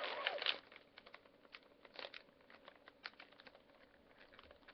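Close-up chewing of a soft mint chocolate chip cookie: faint, irregular small mouth clicks. A short rustle at the start.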